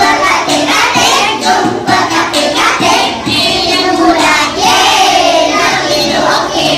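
A group of young children singing loudly together, with music playing along.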